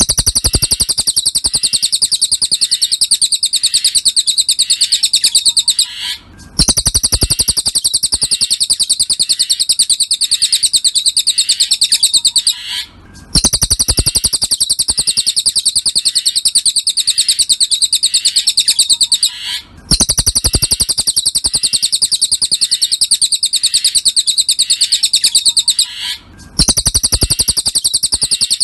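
Cililin song-bird tutor recording: a fast, even run of high chirps, played in near-identical stretches of about six seconds with a brief gap between each.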